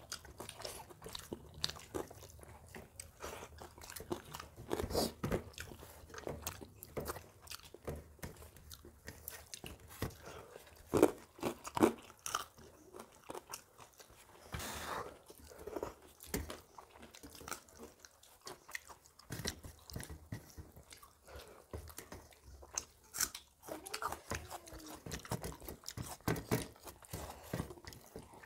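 Close-up chewing and lip-smacking of two people eating rice and curry by hand, with scattered short clicks and taps against steel plates.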